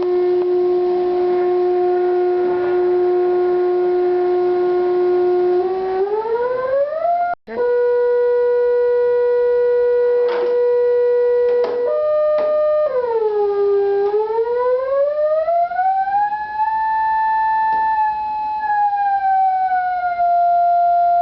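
An electronic test tone from a function generator, played through the loudspeaker at the end of a Rubens tube. It holds a steady pitch with overtones, slides up about six seconds in, cuts out for an instant, and steps higher. It then swoops down and back up like a siren and settles on a higher steady note, as the frequency is changed to find standing waves in the tube.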